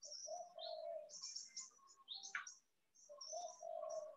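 Faint birdsong: several birds giving short high chirps and whistles, with a lower, drawn-out call twice, each under a second long.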